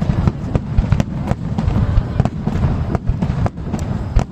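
Aerial fireworks in a starmine barrage: shells bursting in rapid succession, several sharp bangs a second over a continuous low rumble.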